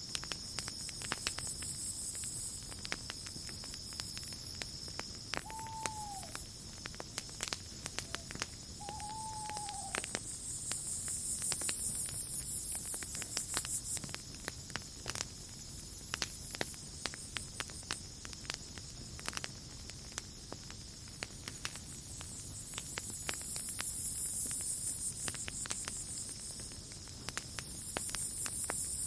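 Campfire crackling with frequent sharp pops, over a steady high-pitched insect trill and a higher buzzing chorus that swells and fades several times. Twice, about five and nine seconds in, a short falling call sounds from a night creature.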